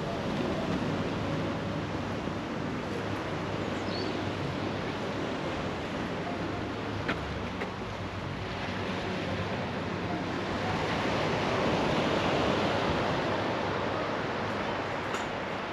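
Sea surf washing onto the beach, a steady rush that swells to its loudest about three-quarters of the way through.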